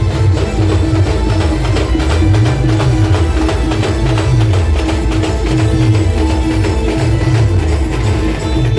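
Loud amplified procession-band music in Indian folk style, with fast dense drumming and a held melody line over a bass that rises and falls.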